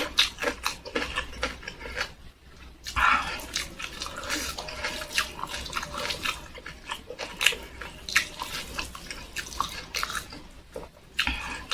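Close-miked wet chewing, with many small sharp mouth clicks and smacks at an irregular pace.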